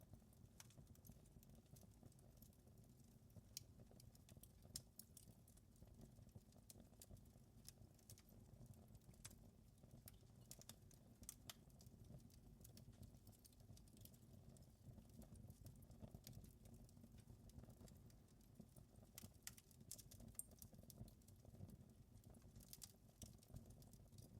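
Faint wood fire crackling: scattered small pops and snaps at irregular intervals over a low, steady rumble of the flames.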